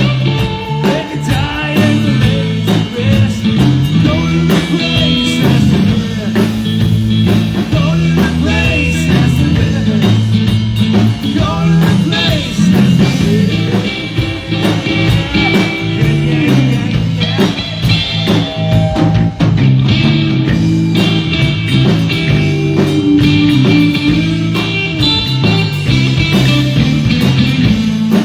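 Live rock band playing a blues-rock number led by electric guitar, loud and continuous.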